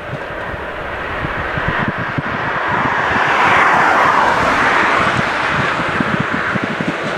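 MÁV class 431 electric locomotive hauling loaded tank wagons as it approaches and passes: a steady mechanical rush of the locomotive and wheels on the rails that grows louder, loudest a little past the middle, over a run of low thuds.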